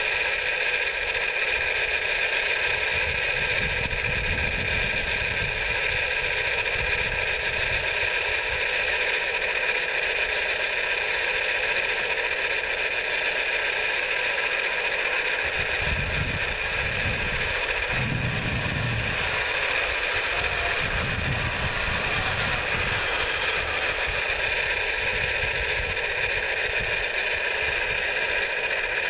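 Radio-controlled model construction machinery running with a steady high motor whine, with a few low rumbles about halfway through.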